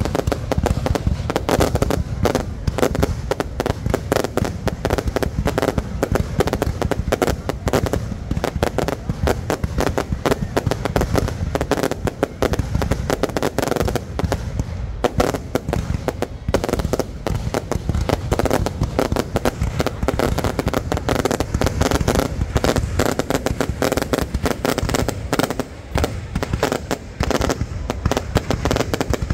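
Fireworks display: a dense, continuous barrage of shell bursts, bang after bang with no pause.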